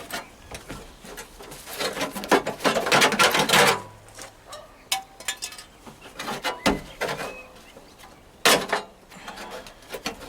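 Thin rusty sheet steel clattering and knocking as the cut-out pieces of a car boot lid are worked loose and popped out. The sound comes in irregular bursts, the loudest between about two and four seconds in.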